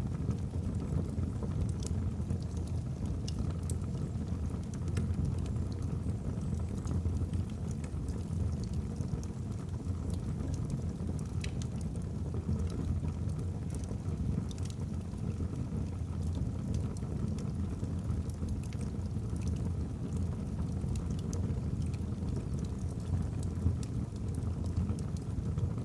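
Wood fire burning in a fireplace: a steady low rumble of flame with scattered small crackles and pops from the logs.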